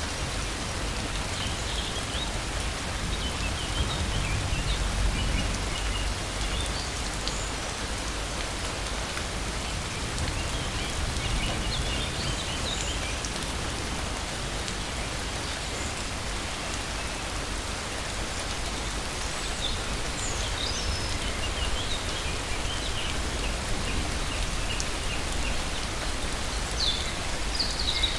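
Steady rain falling, with short high chirps of birds scattered through it and a low rumble about four to six seconds in.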